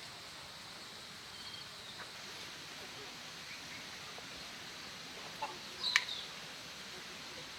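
Chicken clucking in a short, sharp outburst about six seconds in, over a steady faint outdoor hiss.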